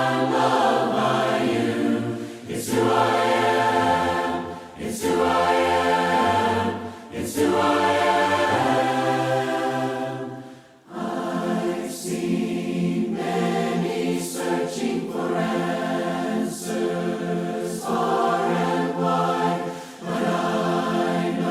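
A choir singing a hymn in parts without instruments, in sustained phrases with short breaths between them. The low bass voices drop out about halfway through, leaving the higher parts.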